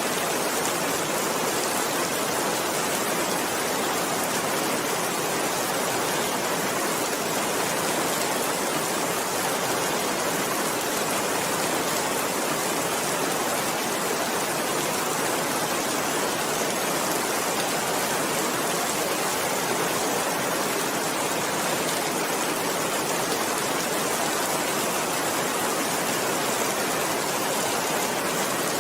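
Steady rain falling, an even, unbroken hiss with no separate drops or gusts standing out.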